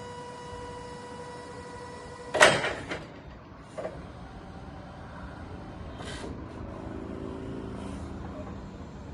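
Electric aisle truck (a warehouse forklift) operating: a steady tone stops with a loud mechanical clunk about two seconds in, followed by a few lighter knocks and clicks over a low electric hum.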